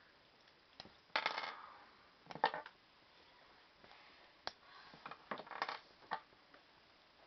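Plastic LEGO pieces clicking and clattering as they are handled and pulled apart, in several short bursts of sharp clicks.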